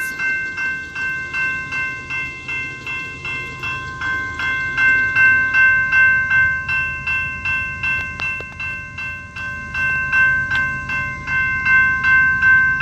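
General Signal electronic crossing bell (E-bell, type 2) ringing steadily at about two strikes a second as the crossing activates. The low rumble of an approaching train builds under it from about halfway.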